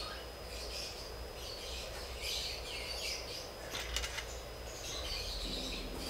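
Faint bird chirps over a low steady hum, with a couple of short clicks about four seconds in.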